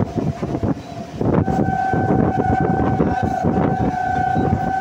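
Rajdhani Express coach running at speed, its wheels clattering over the track. A long, steady train horn blast starts about a second and a half in and holds on one pitch.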